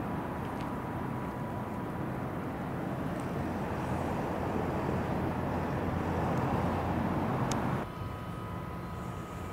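Train running by with a steady rumble that slowly grows louder, then cuts off abruptly near the end, with a sharp click just before.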